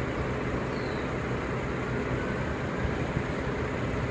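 2014 Mercedes-Benz C350's 3.5-litre direct-injection V6 idling steadily.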